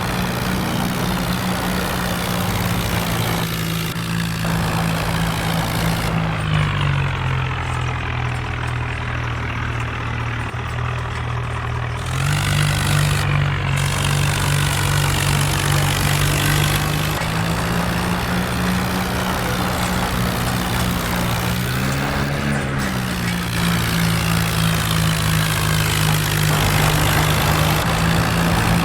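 Tractor diesel engine running steadily. Its speed drops and picks up again a few times, with a brief rev in the later part.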